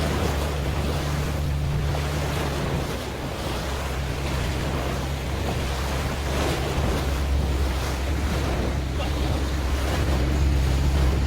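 Boat engine running with a steady low hum under the wash of sea water and wind buffeting the microphone, with soft swells every second or two.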